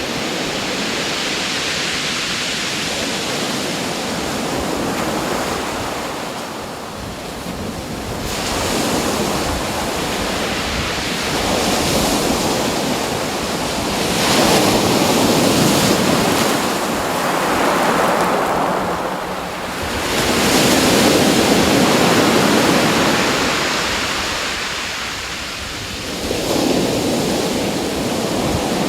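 Sea waves breaking and washing ashore, the noise swelling and falling back every few seconds, with wind buffeting the microphone.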